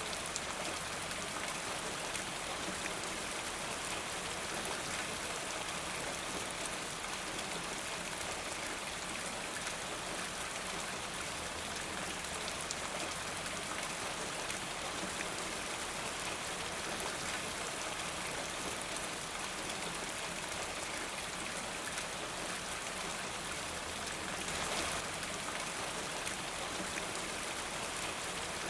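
Steady rain falling, a dense patter of drops. It swells briefly about 25 seconds in.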